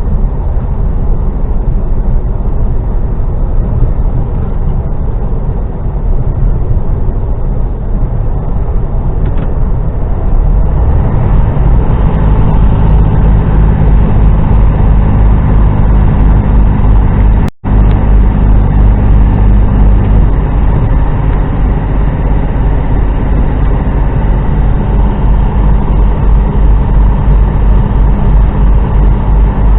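HGV truck's diesel engine and road noise heard inside the cab: a steady low drone that grows louder about ten seconds in. The sound cuts out for an instant just past halfway.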